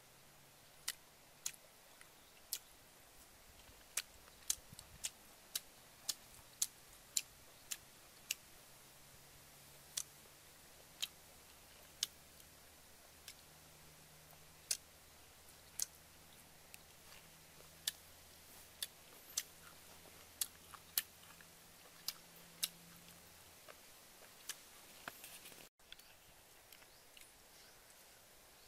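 Mouth sounds of someone eating rice and chicken liver by hand: sharp, irregular smacking clicks, roughly one a second, over a quiet background.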